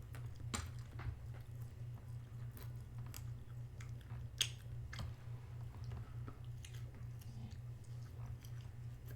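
Someone chewing and biting into a chicken burger and fries close to the microphone, with scattered small crunches and mouth clicks, the sharpest about halfway through. A steady low hum runs underneath.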